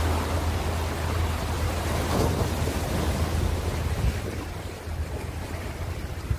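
Ocean waves washing in and out, one surge building about two seconds in and then easing off, with a steady low rumble of wind on the microphone underneath.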